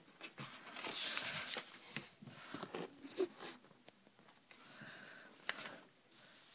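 Handling noise: rustling and scraping, with a sharp click about three seconds in and another about two seconds later.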